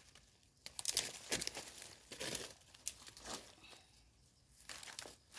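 Rustling, crinkling and soft tearing of termite mushrooms being picked by hand from the ground, in a string of irregular strokes.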